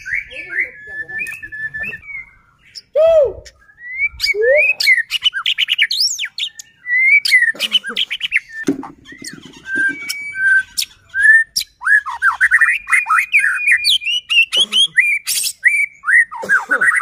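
White-rumped shama (murai batu) singing a loud, fast, varied song of quick whistled notes and glides, broken by sharp clicking notes.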